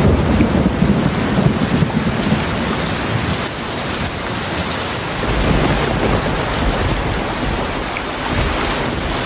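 Heavy rain falling steadily with rolling thunder: a low rumble from the start to about three seconds in, and another around the middle.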